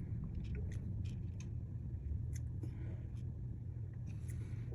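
A steady low hum from bench equipment with scattered light clicks and taps of small repair tools.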